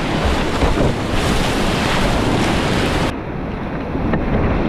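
Rushing whitewater rapids, a loud steady roar of moving water with wind buffeting the microphone; the hiss thins out about three seconds in.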